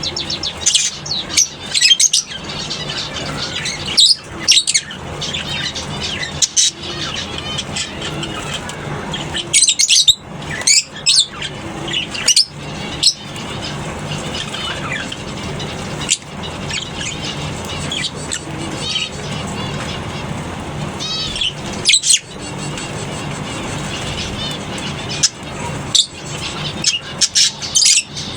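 A colony of lovebirds chattering, with many overlapping chirps and loud shrill squawks at irregular moments, over a steady low hum.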